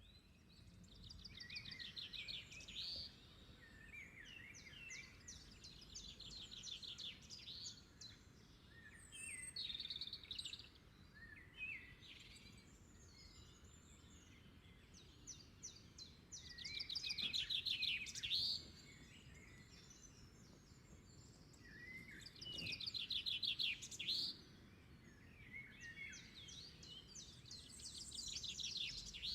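A songbird singing, repeating a short phrase of rapid trilled notes every few seconds, over a faint steady low background noise.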